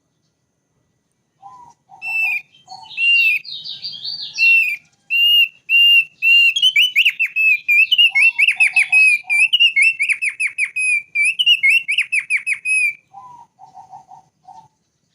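Thick-billed white-eye singing a long run of high whistled notes that quickens into rapid falling sweeps and stops about two seconds before the end. Groups of lower, short notes come in near the start, in the middle and after the song stops.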